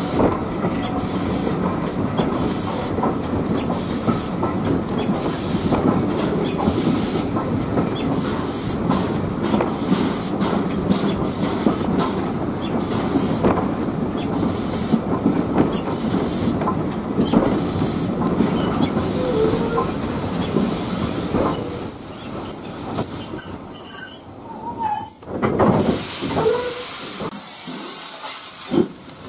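Heritage steam railway train running along the line, heard from aboard: a steady rumble with wheels clicking over rail joints. Toward the end the noise drops and a thin high squeal comes in, then after a sudden change a hiss of steam with a few knocks.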